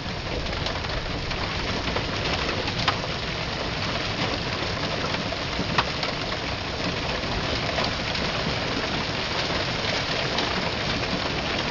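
Heavy hail pelting down in a dense, steady patter, with a few louder single hailstone strikes about three and six seconds in.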